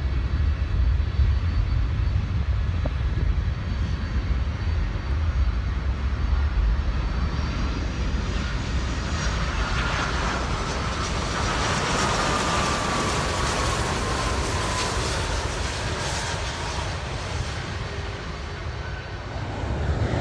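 Jet airliner passing close by, a steady low rumble with an engine whine that swells from about eight seconds in and falls in pitch as the aircraft goes by.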